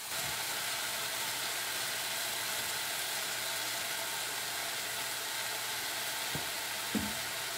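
Chicken pieces and carrots sizzling steadily in a hot wok over a gas flame. There are two faint short knocks near the end.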